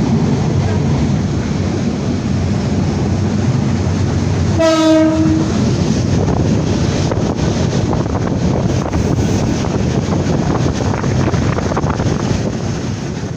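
Passenger train running with a steady rumble; its horn sounds once, a single steady note for about a second, roughly five seconds in. Through the second half the wheels click over the rail joints.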